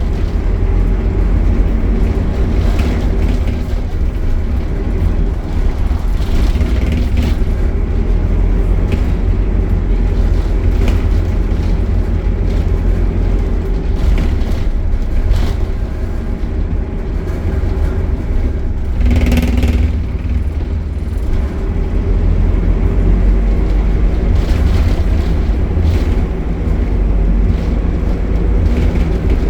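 Optare Solo midibus engine running steadily, with light knocks and rattles and a brief louder surge about two-thirds of the way through.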